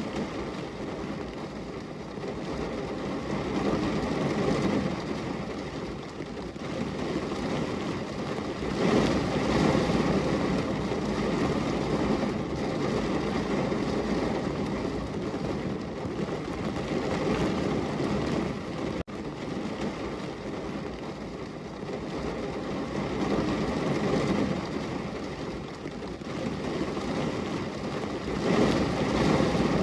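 Heavy rain pouring steadily on a window, swelling and easing every few seconds, with a split-second drop-out about two-thirds of the way through.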